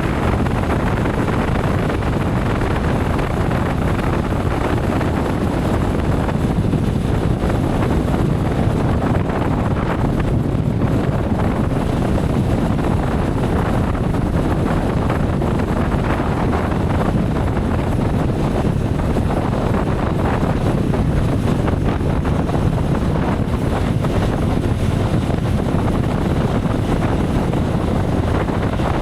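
Steady wind rush over the microphone and road noise from a moving motorcycle, unchanging throughout.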